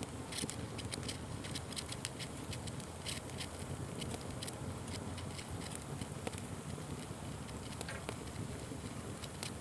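Wood fire crackling and popping: many sharp, irregular crackles over a steady low rush of burning.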